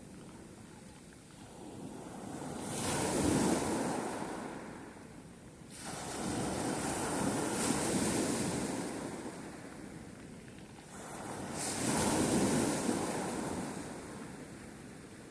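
Sea surf: three waves in turn, each a swelling rush that dies away, about four to five seconds apart.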